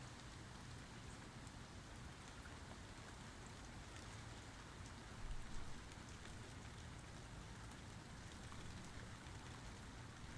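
Steady rain falling, with faint individual drops ticking through it. About halfway through there is one brief, louder thump.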